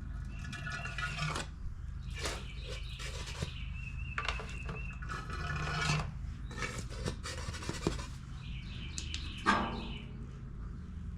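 Intermittent rubbing and scraping with a few light knocks as the last bit of fuel is cleaned out of a Honda HRR216 mower's fuel tank, the mower tipped over. A steady low hum runs underneath.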